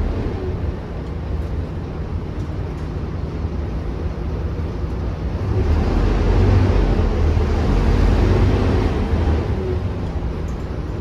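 A Volvo B9TL double-decker bus's six-cylinder diesel engine, heard from on board as a steady low drone. It grows louder for a few seconds from about halfway through, then eases off again.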